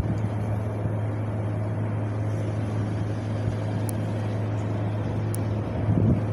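Wind blowing steadily, a low rumbling rush that swells into a stronger gust near the end.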